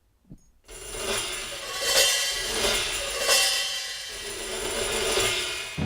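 Metal percussion: cymbals and scrap sheet metal ringing and rattling together in a dense, sustained wash. It starts suddenly under a second in and swells twice.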